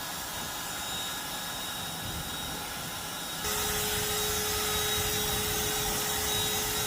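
Electric air pump inflating an air mattress, running with a steady whir. About halfway through it gets louder and a steady hum comes in, as the mattress is topped up to firm pressure.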